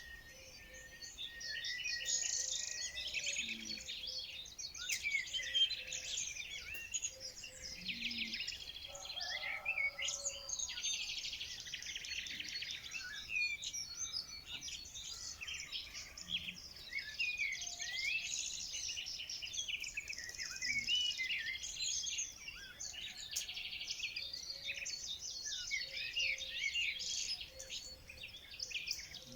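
A chorus of many small birds chirping, twittering and trilling at once, overlapping continuously with no pause.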